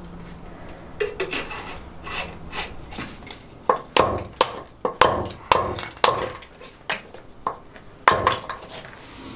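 A knife blade chopping into a piece of wood held by hand, splitting off kindling. Light scraping and handling, then a run of sharp knocks about two a second.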